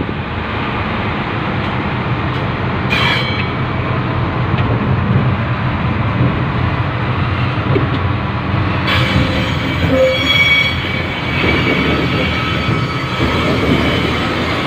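Industrial freight train running on the track, heard from aboard a wagon: a steady rumble and rattle of wheels on rail. A short sharp clank comes about three seconds in, and thin high squeals join from about nine seconds in.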